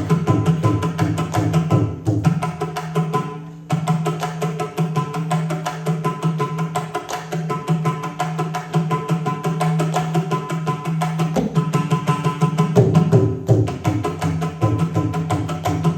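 Indian classical hand drums playing fast, dense Carnatic rhythm patterns over a steady low drone tone. The drumming thins briefly after about three seconds, then builds back, with heavier low strokes returning near the end.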